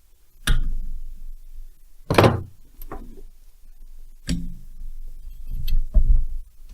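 A series of irregular heavy metal knocks as a large spanner is worked and struck against the flywheel nut of a Stihl 070 chainsaw to break it loose.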